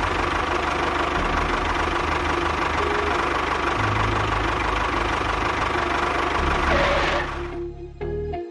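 An engine running steadily, fading out about seven and a half seconds in.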